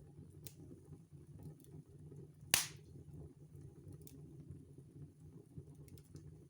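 Wood fire in a fireplace crackling: sparse small crackles over a low steady background, with one loud sharp pop about two and a half seconds in.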